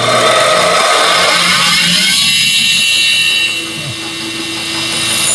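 Bandsaw running and cutting a wooden piece, a steady loud machine noise with a high whine; it eases a little past the middle and rises again near the end.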